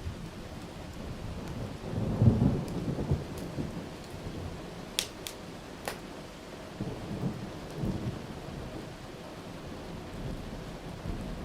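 Steady rain with rolls of thunder, the loudest rumble about two seconds in and a softer one around seven to eight seconds. A few sharp pops from a wood fire crackle in the middle.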